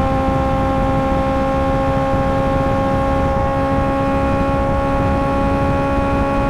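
Suzuki GSX-R 600 inline-four running through an M4 GP slip-on exhaust, held at a steady high engine speed with a constant note over a low rumble.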